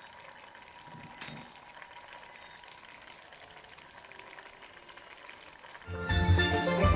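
Pot of parrot fish steaming down in butter with onion and peppers, a soft steady sizzle and simmer, with one sharp click about a second in. Steelpan music with drums comes in near the end.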